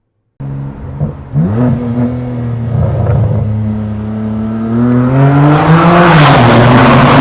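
Straight-piped BMW M3's twin-turbo straight-six exhaust, loud: a quick rev about a second in, a short steady stretch, then climbing in pitch under hard acceleration and loudest near the end, with a rough rasp on top.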